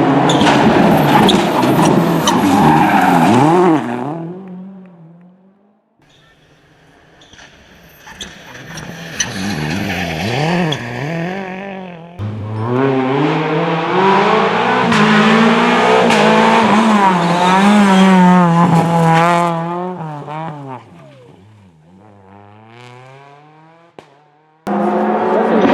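Several rally cars going past one after another, engines revving hard with pitch rising and falling through gearshifts and off-throttle moments. The sound jumps abruptly between passes a few times.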